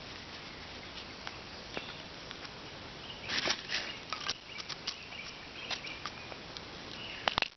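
Rustling and sharp little clicks of small items being handled and packed away, with a louder flurry of rustling about three seconds in and a few more clicks near the end, over a steady background hiss.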